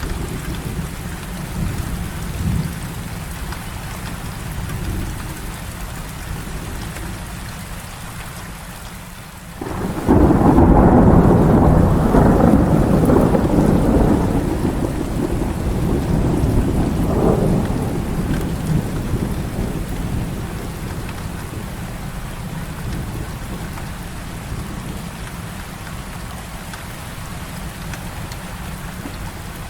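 Heavy rain falling steadily, with low rumbles of distant thunder early on. About nine and a half seconds in, a loud thunderclap breaks in suddenly and rolls on, slowly dying away over the next ten seconds.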